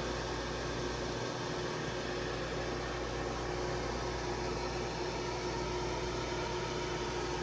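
Steady mechanical hum and rushing noise with a low rumble and a couple of faint steady tones.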